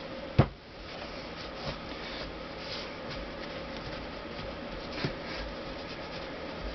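A Honda CX500 cylinder head being handled. There is a sharp knock about half a second in, then faint scratchy rubbing and a few light taps over a steady hum.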